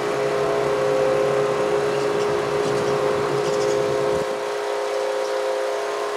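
Federal Signal Model 5 outdoor warning siren sounding a steady tone; the title calls this siren failed. A vehicle rumbles underneath and fades out about four seconds in.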